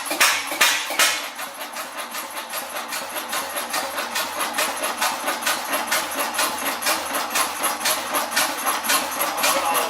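Old diesel engine running with a regular knocking exhaust beat: a few loud, slower beats in the first second, then an even beat of about four a second.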